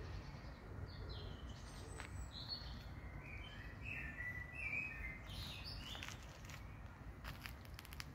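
Songbirds chirping and twittering in short, varied phrases over a steady low background rumble, with a few sharp clicks near the end.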